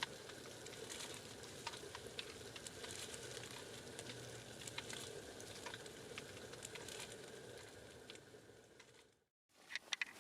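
Faint steady crackling hiss with many scattered light ticks: snow pattering on a plastic-wrap shelter. It cuts off abruptly near the end.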